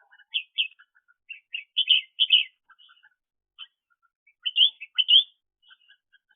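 Red-whiskered bulbul chirping in a run of short, quick notes, with a louder pair of calls about two seconds in and another pair around five seconds.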